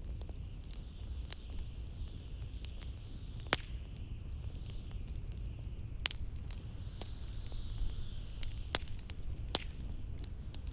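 Log fire crackling, with irregular sharp pops (two stand out, a few seconds in and about halfway), over a steady low rumble of blizzard wind; a hissing gust rises and falls twice.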